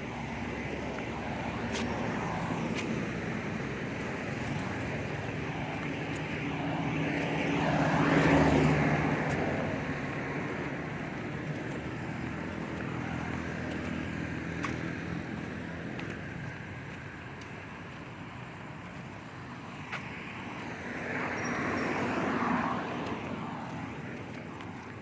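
Steady traffic-type background noise with two motor vehicles passing, each swelling and fading: the louder one about eight seconds in, another near the end.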